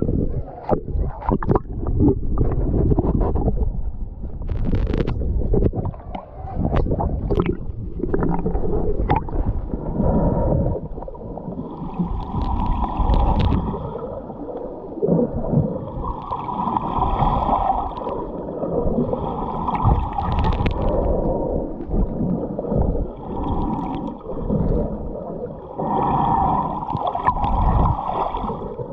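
Scuba diver breathing through a regulator underwater: several hissing inhalations of about two seconds each, alternating with gurgling rushes of exhaled bubbles. The first ten seconds are busier, with bubbling and many sharp clicks and knocks.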